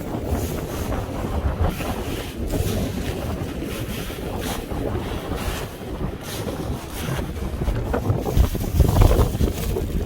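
Wind buffeting the microphone with an uneven low rumble that swells near the end, over the wash of sea waves.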